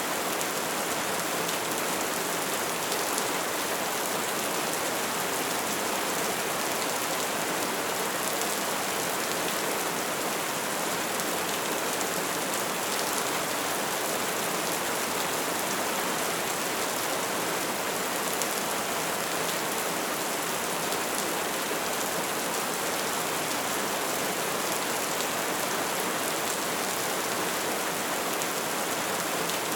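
Wood fire burning steadily: an even hiss of flames with a constant scatter of small crackles and pops.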